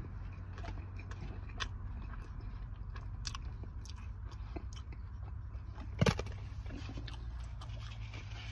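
A person chewing a bite of pizza, with scattered soft crunches and mouth clicks, one louder about six seconds in, over a low steady hum inside a car.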